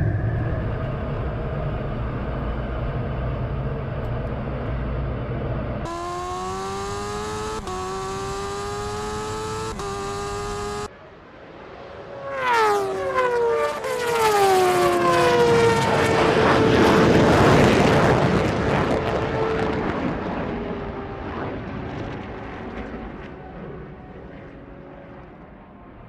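High-performance racing engines: a low rumble, then an engine revving up with gear changes that cuts off abruptly. After that, a fast vehicle screams past with a sharply falling pitch, and a loud roar swells and fades away.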